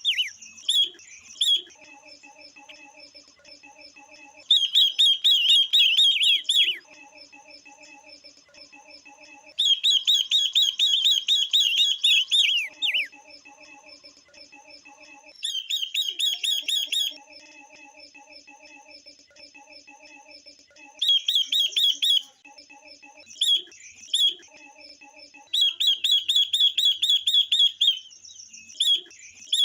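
Female 'ngũ sắc' and 'quế lâm' cage songbirds calling, a recording used to stir males into song. Loud bursts of rapid, high chirping last two to three seconds and come every few seconds, with quieter, lower repeated notes between the bursts.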